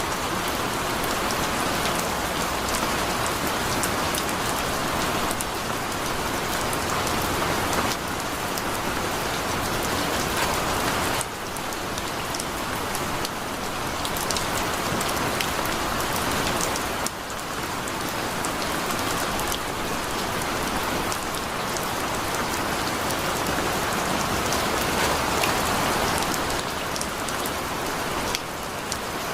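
Heavy rain falling steadily, a dense hiss of drops on a surface, with a few small sudden dips in loudness.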